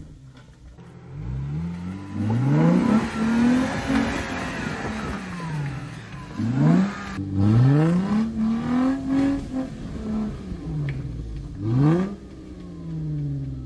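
Jeep Wrangler engine revving up and falling back repeatedly as it strains against the rocks without climbing free. A rock is wedged inside the wheel against the lug nuts, and the Jeep can go neither forward nor back.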